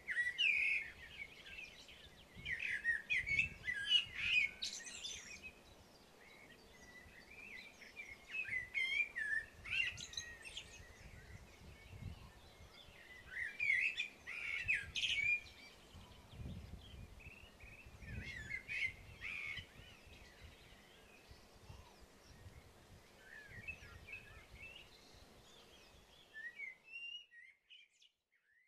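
Songbirds singing in short warbling phrases every few seconds over a low wind rumble; the sound cuts off near the end.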